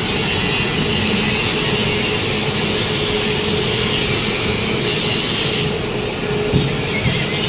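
Wood pellet production line machinery running steadily and loudly, a continuous mechanical noise with a steady hum, and a brief knock near the end.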